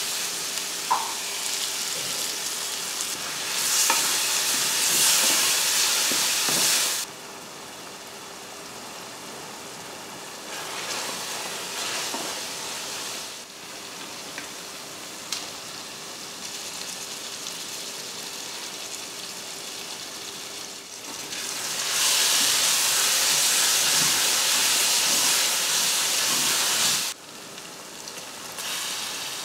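Masala sizzling and frying in an aluminium pressure cooker while a spatula stirs and scrapes it. The sizzle is loud for the first several seconds, drops suddenly to a quieter frying, and swells loud again for a few seconds near the end before cutting off.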